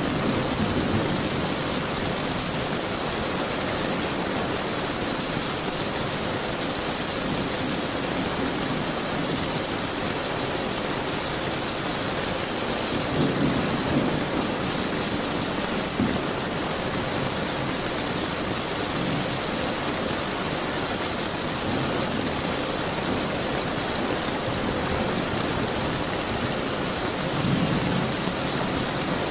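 Steady rain falling, with low thunder rumbles swelling up about halfway through and again near the end.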